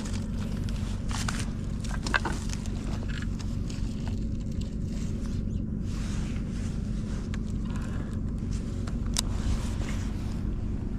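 A steady low engine drone runs throughout, with a few faint clicks scattered over it.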